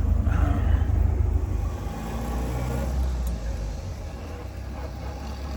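1926 Voisin's sleeve-valve engine running as the car drives, heard from inside the cabin as a steady low rumble. It eases off about two seconds in.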